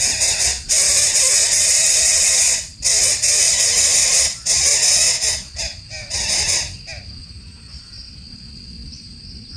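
Harsh, hissing bird screeches in a run of long, loud calls with short breaks between them. The calls stop about seven seconds in, leaving a faint steady high tone.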